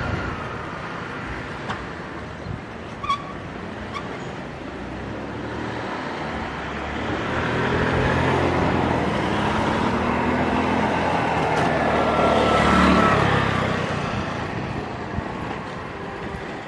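HXD1D electric locomotive hauling a passenger train of 25K coaches passing at speed: a rumble that builds, with a whine dropping in pitch as it goes by, loudest about twelve to thirteen seconds in, then fading.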